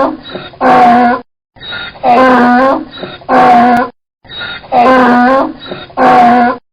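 An animal calling in pairs of short, loud pitched cries, each under a second long. The same pair of calls comes three times over, evenly spaced, as a repeated loop.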